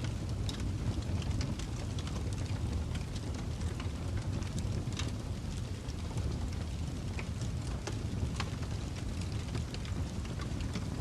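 A wood fire crackling: irregular sharp pops and snaps over a steady low rumble.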